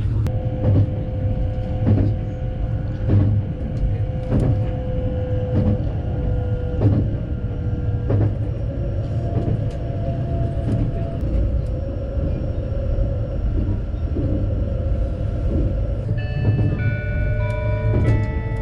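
Passenger train running on the rails: a steady low rumble with a sharp clack about every second, typical of wheels crossing rail joints. Background music with held notes plays over it, and a run of higher notes comes in near the end.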